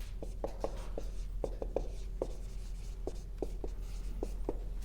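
Writing on a board: a quick, irregular series of short strokes and taps as the words are written out.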